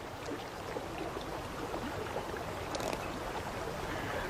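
Steady rush of flowing river water, with a few faint clicks about three seconds in.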